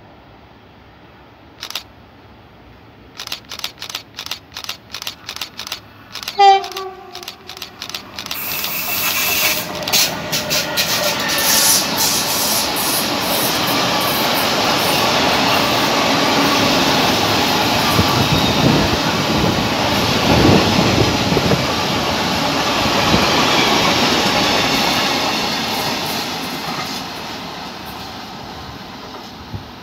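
Freight train of tank wagons running through a station: regular wheel clacks over the rail joints as it approaches, a short horn blast about six and a half seconds in, then the loud rumble and rattle of the wagons passing, fading near the end.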